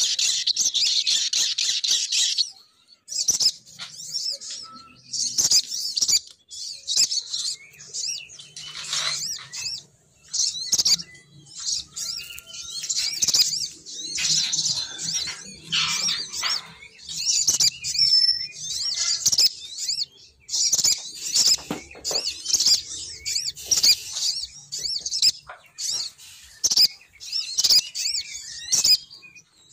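Female sogon bird calls played as a bird-trapping lure (suara pikat): rapid, high-pitched chirping and twittering in quick bursts separated by short pauses.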